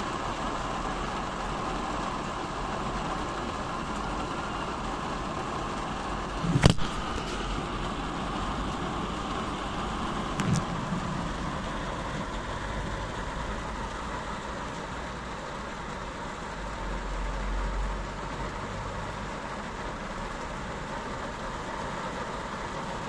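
Heavy rain falling steadily on a car's windshield and roof, heard from inside the car, over a low steady rumble. A sharp knock about six and a half seconds in and a softer one about four seconds later.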